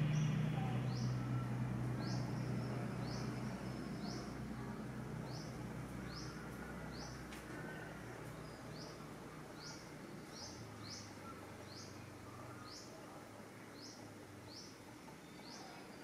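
Small bird chirping over and over: short, high, downward-sliding chirps, about one to two a second. A low hum underneath fades away over the first several seconds.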